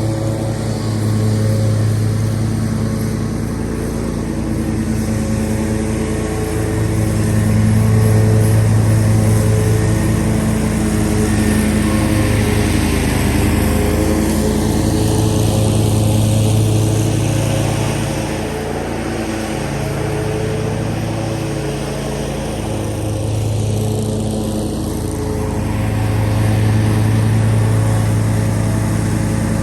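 Zero-turn mower engine running steadily while mowing, loud, its sound swelling and easing every several seconds.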